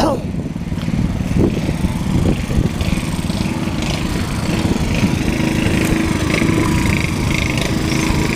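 Tractor engine running steadily, its rapid firing pulses, with a steady whine joining about five seconds in.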